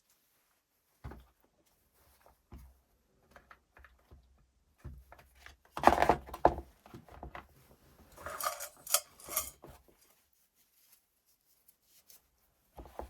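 Small parts being handled during repair work on a cordless drill's gearbox: scattered clicks and light knocks, a louder clatter about six seconds in, then a short run of metallic rattling.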